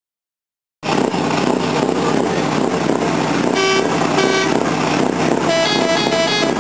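Scania R620 truck's 16-litre V8 running loudly through an open, straight-through exhaust, cutting in suddenly about a second in. Two short horn blasts sound about three and a half to four seconds in, then a quick run of short toots near the end.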